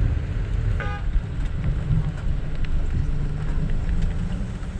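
Steady low rumble of a tour bus's engine and tyres on the road, heard from inside the bus, with a brief horn toot about a second in.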